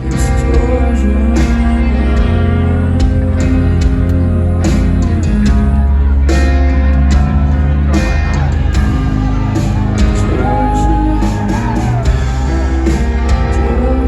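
Live rock band playing loudly with a singing voice, a heavy low end and sharp drum hits, as heard from the crowd on a phone.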